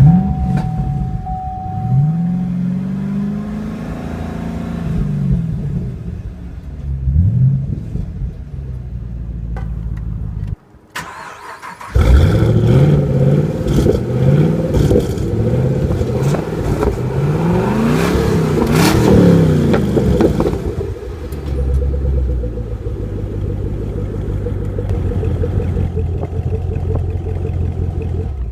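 2013 Chevrolet Camaro ZL1's supercharged 6.2-litre V8 revving through its quad-tip dual-mode exhaust. It falls quiet briefly about eleven seconds in, then comes back loudly and is revved again and again before settling into a steady idle for the last several seconds.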